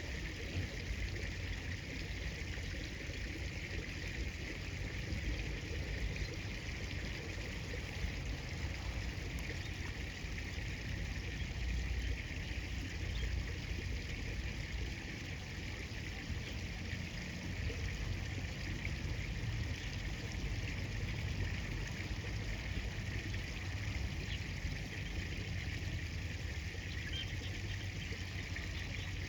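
Steady flow of river water.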